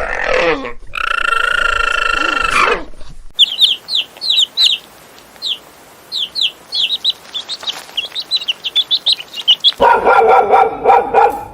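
A string of different animal calls. First comes one drawn-out call of about two seconds. Then a small bird chirps rapidly for several seconds in quick, short chirps. Near the end comes a loud, lower-pitched animal call.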